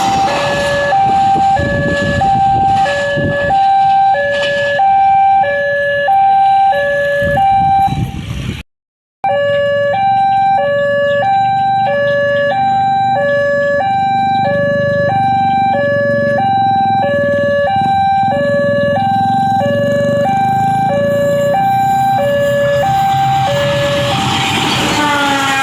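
Electronic two-tone level-crossing warning alarm sounding, a low and a high tone alternating about twice a second, with a brief break about a third of the way through.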